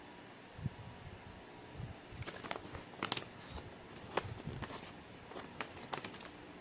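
Handling noises of an unboxing: a few soft thumps, then a scattering of light, sharp clicks and taps, as packaging and parts are handled.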